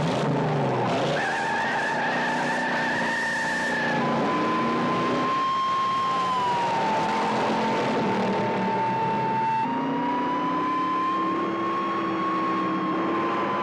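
Car tyres squealing in a long, wavering screech through hard cornering, with car engines running underneath and revving up near the end; a film car-chase soundtrack.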